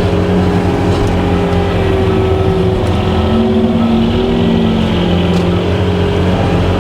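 Skid steer engine running hard with the brush hog attachment engaged, a steady drone. Its pitch sags for a moment around the middle, as under load, then comes back up.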